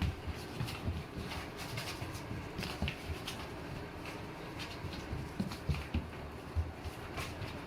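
A pet's feet running around in circles on a floor in a small room: quick, irregular thumps and clicks.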